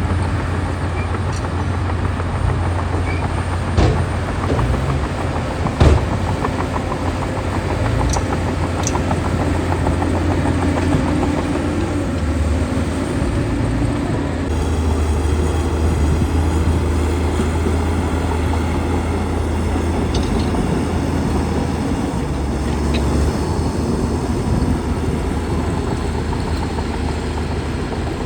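Heavy diesel earthmoving machinery, a bulldozer at work, running steadily with a deep engine drone, and a couple of sharp metal clanks in the first six seconds.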